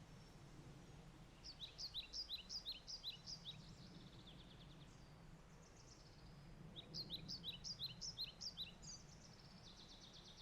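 A songbird sings two quick trills of repeated down-slurred chirps, one a couple of seconds in and one about seven seconds in, with fainter calls between them. Underneath is a faint, steady low background noise.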